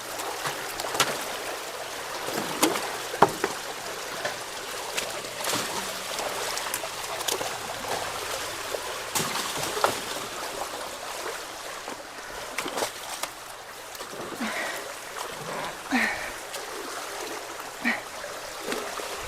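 Steady rush of creek water flowing through a cleared culvert, with scattered sharp knocks and splashes throughout.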